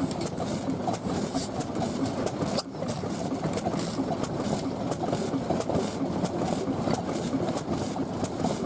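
Old stationary engine running, with regular sharp ticks over a steady mechanical clatter and a brief drop in level about two and a half seconds in.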